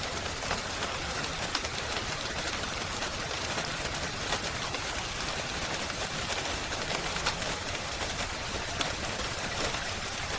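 Steady rain hiss with scattered sharp crackles from a wood fire.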